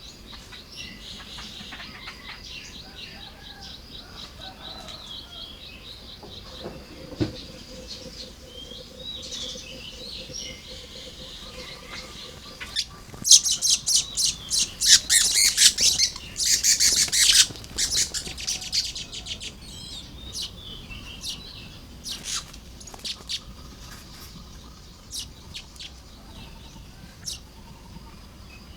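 Baya weavers chattering at their nests: fast trilling chatter at first, then a loud, dense burst of rapid sharp notes about halfway through, which thins to scattered single notes near the end.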